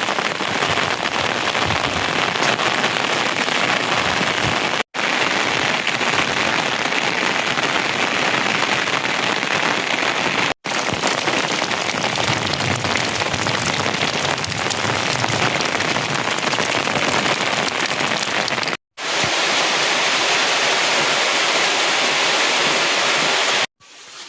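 Heavy rain falling steadily as a dense, even hiss. It cuts out briefly to silence about five, ten and a half and nineteen seconds in, and again just before the end.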